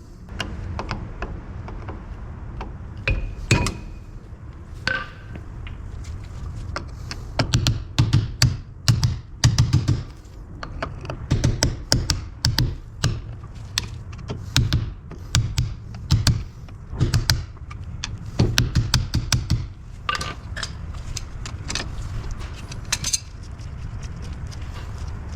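Metal tools knocking, tapping and clattering against the front brake parts of a Toyota Publica 800 as they are taken apart, in runs of quick sharp strikes and clanks over a low rumble.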